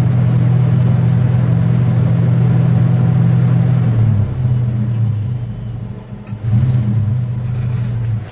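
Toyota Kijang Super's engine idling with a deep, steady low hum. About four seconds in, the hum turns uneven and quieter.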